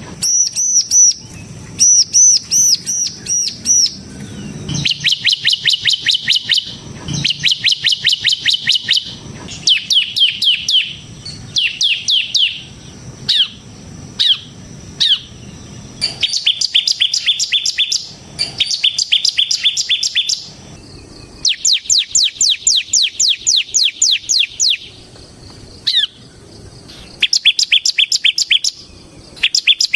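Bar-winged prinia (ciblek) singing its fast, drill-like trilling song, known to keepers as ngebren. It comes in bursts of one to three seconds, each a rapid run of short, sharp, high notes, with brief pauses between bursts.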